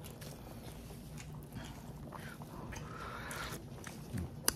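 Faint chewing of food, with a few soft mouth and tableware ticks and one sharp click near the end.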